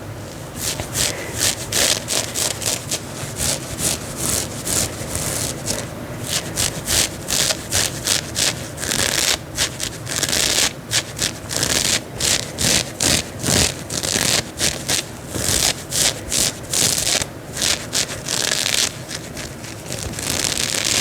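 Fingernails scratching the fabric of a dress, in quick repeated strokes with a few longer rubs.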